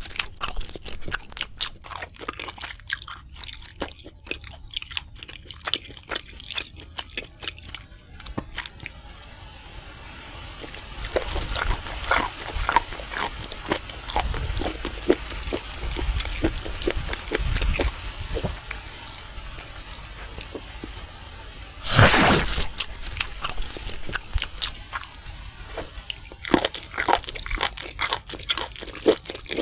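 Close-up eating sounds of crispy fried food being bitten and chewed: dense crunching for the first several seconds, softer steady chewing through the middle, one loud crunching bite about two-thirds of the way in, then crunching again near the end.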